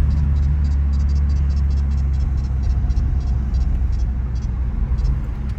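BMW G80 M3's twin-turbo inline-six and road noise droning steadily from inside the cabin while cruising, with faint light ticking over the top.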